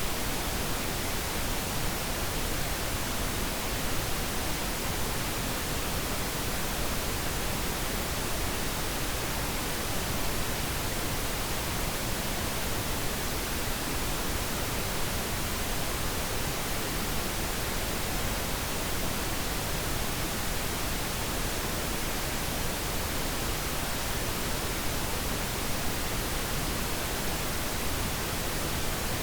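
Steady pink noise: an even, unchanging hiss across the whole range, played as a sleep aid.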